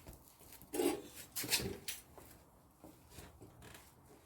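A few short scraping and rubbing noises, the loudest about a second in, as the electric mini bike is handled to try its brakes.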